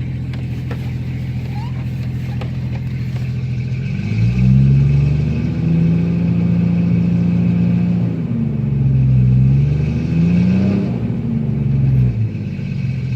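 Jeep 4.0L straight-six with a straight-piped exhaust, running loud. It idles steadily, then about four seconds in the revs climb and hold, dip briefly, climb again, and fall back to idle near the end.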